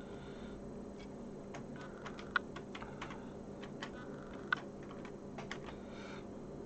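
Irregular light clicks and taps of plastic keyboard parts being handled and fitted together on a Sinclair QL keyboard, with two sharper clicks standing out about two and a half and four and a half seconds in. A faint steady hum runs underneath.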